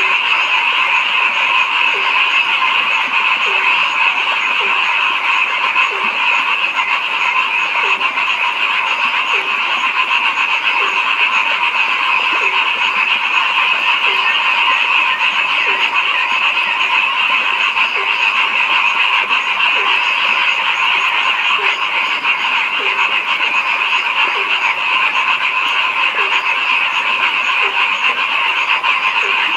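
Dense chorus of many frogs calling without a break, with a lower, short croak repeating evenly a little more than once a second.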